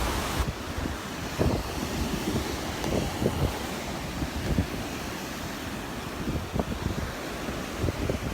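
Wind buffeting the microphone over the steady wash of small waves breaking on the beach.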